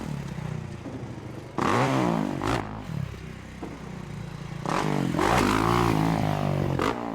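Dirt bike engine revving hard in bursts, its pitch rising and falling as the throttle is worked, with louder bursts starting about one and a half seconds in and again from about four and a half seconds in.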